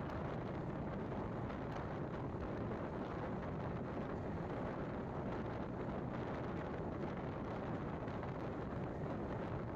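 Steady running noise of an express train in motion, heard from on board: an even rumble of wheels on track and rushing air, with no breaks or changes.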